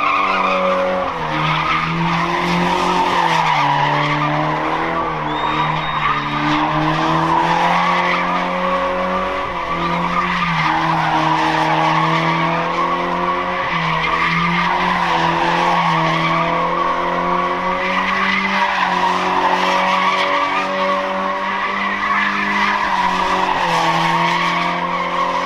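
Car tyres screeching continuously as a car is driven in a stunt skid, its engine held at a steady pitch with brief dips and recoveries.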